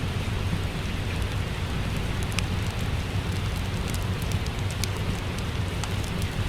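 Steady rain mixed with a wood fire crackling: an even rain hiss with a low rumble underneath, and scattered sharp pops and ticks throughout.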